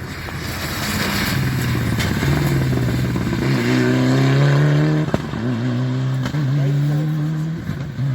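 Rally car engine under hard acceleration, getting louder as it approaches, with a brief break in the engine note about five seconds in before it pulls on again.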